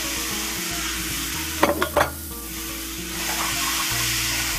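Chopped tomatoes sizzling in hot oil in a frying pan, a steady hiss. About a second and a half in there are three quick, sharp knocks against the pan.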